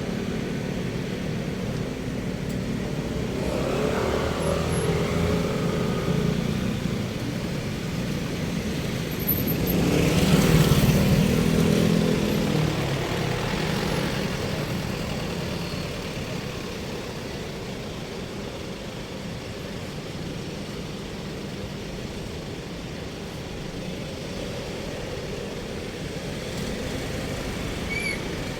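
Street traffic: vehicle engines running steadily, with one vehicle passing close and growing louder about ten seconds in, then fading.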